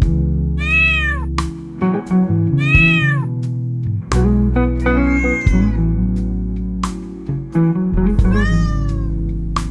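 Background music with plucked guitar over held low notes, with a cat meowing four times on top; each meow rises and falls in pitch, and the third is longer and flatter.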